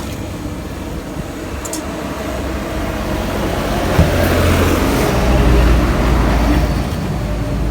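Mitsubishi Adventure's 4D56 diesel engine running, now that the bad battery terminal that kept it from starting has been fixed. About four seconds in there is a click, then the engine runs louder for a couple of seconds before settling back.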